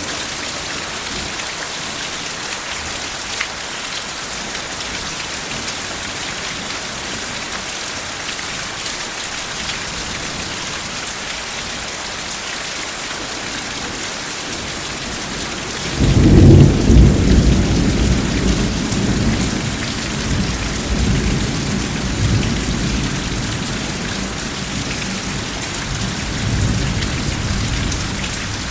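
Steady heavy rain hissing, with a roll of thunder breaking in suddenly past the middle, loudest at first and rumbling on as it slowly fades.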